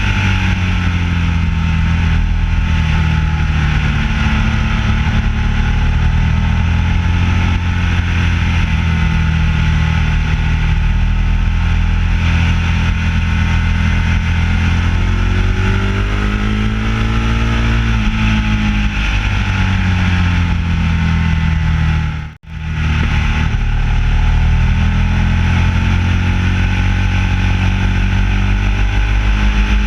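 Ducati 1199S Panigale's L-twin engine running under way, its pitch slowly rising and falling with the throttle. The sound cuts out for a split second about three-quarters of the way through.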